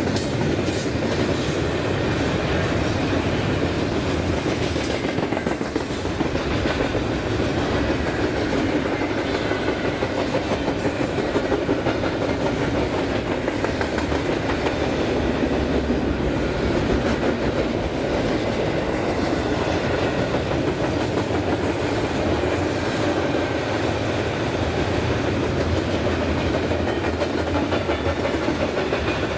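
A BNSF freight train's cars rolling past steadily, steel wheels running on the rails, with no horn.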